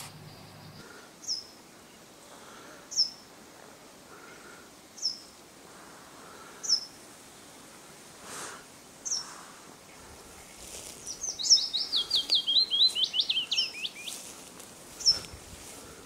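Birds calling in a forest: a short high down-slurred chirp repeats every couple of seconds, and about eleven seconds in a quick, falling run of song lasts about three seconds. A faint steady background hiss lies under them.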